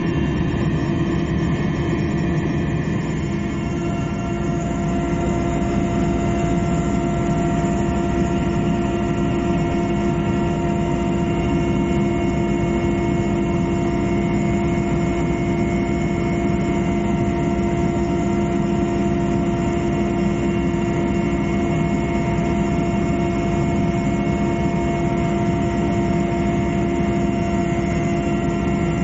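Aircraft engine drone on a patrol flight, steady and loud, with several constant whining tones over a low rumble that do not change.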